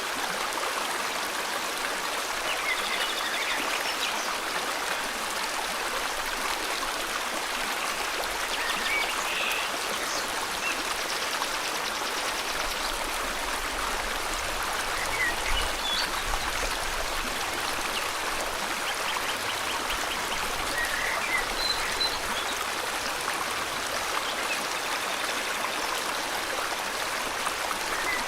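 River water flowing steadily over rocks, with faint, scattered bird chirps and short trills above it.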